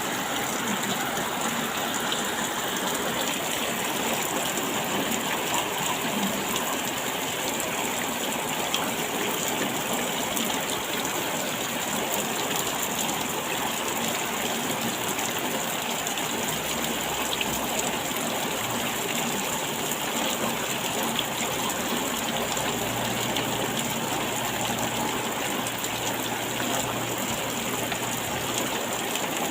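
Steady heavy rain falling, a dense even hiss of many drops.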